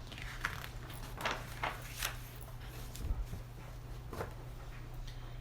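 Soft paper rustles and light taps, a handful of separate short sounds, as the pages of a picture book are handled and turned, over a steady low room hum.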